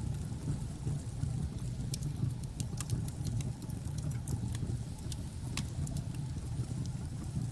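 Wood fire crackling, with sharp scattered pops over a steady low rumble.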